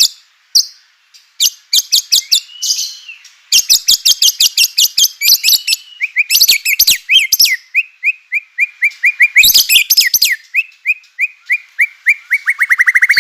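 White-rumped shama (murai batu) song in rapid chattering runs. It opens with series of sharp, high clicking chips, then short whistled notes repeated quickly, which speed up into a fast trill near the end.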